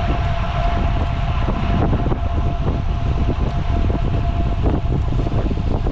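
Wind buffeting the microphone of a moving road cyclist: a loud, steady low rumble with a faint steady tone running through it.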